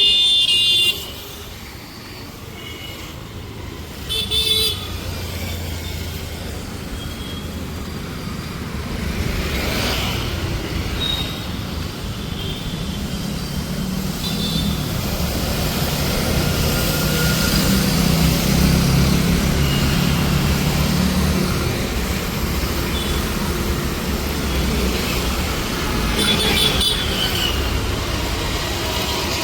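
Busy city street traffic, engines running steadily, with vehicle horns honking: a loud horn blast at the very start, another about four seconds in, and a third near the end.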